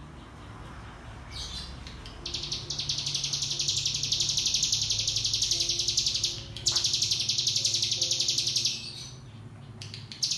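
Ciblek gunung, a mountain prinia, singing its long, rapid rattling trill (the 'ngebren' song). After a short note it trills for about four seconds, breaks off briefly, then trills for about two more seconds.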